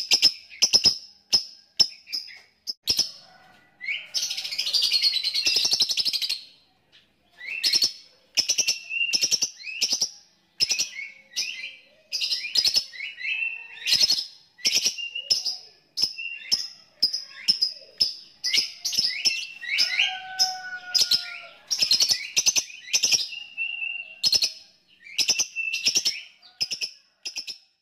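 Lovebird calling in rapid, sharp, high chirps, several a second, broken about four seconds in by a dense run of chattering for a couple of seconds.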